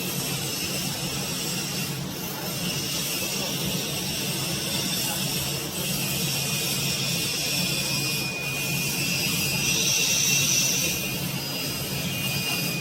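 Production-line machinery for forming water heater outer shells running steadily: a constant hum under a high hiss, with a thin high whine joining about halfway through and getting louder for a moment near the end.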